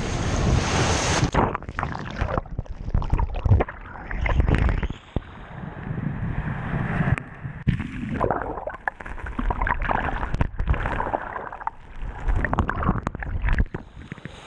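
Wind buffeting a GoPro's microphone beside the surf, with irregular gusts and bumps of handling noise.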